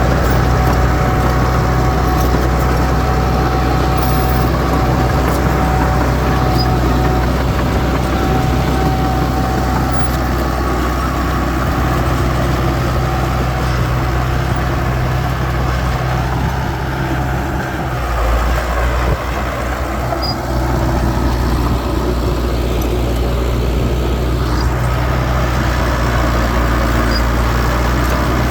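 Heavy diesel earthmoving machinery running steadily, with a constant low engine note. The engine note changes briefly a little past the middle.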